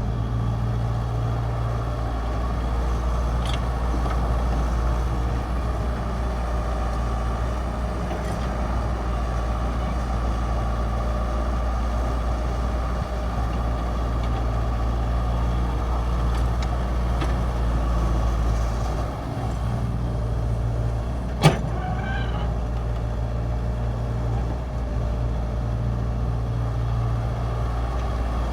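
Hitachi mini excavator's diesel engine running steadily, with one sharp knock about twenty-one seconds in.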